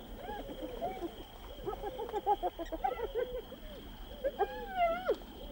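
Spotted hyenas giggling and whooping at a kill: many short rising-and-falling calls come in quick overlapping runs, and a few longer wavering calls follow near the end.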